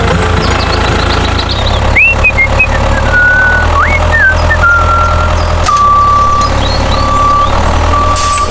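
Tractor engine running steadily, with a high electronic melody of gliding and held notes over it.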